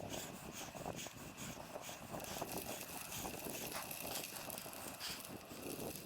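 Bicycle riding noise: a steady rush with many small clicks and rattles throughout, and a faint steady high tone above it.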